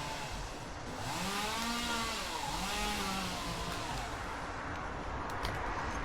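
Chainsaw engine revving up and back down twice in quick succession, over a steady background hiss, with a few sharp clicks near the end.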